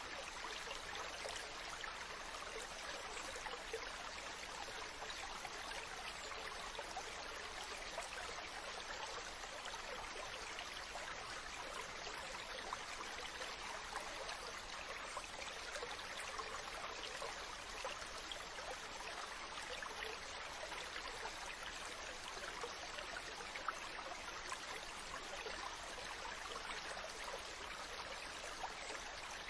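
Water rushing as a steady, even hiss, with no rise and fall of separate waves.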